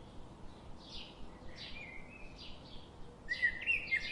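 Small birds chirping in short repeated phrases over a faint steady hiss, sparse at first and busier near the end.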